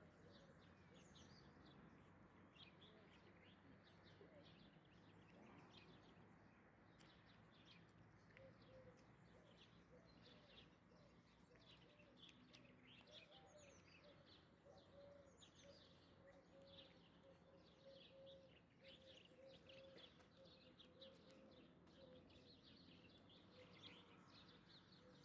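Faint chirping of small birds, many short calls throughout, over a quiet background.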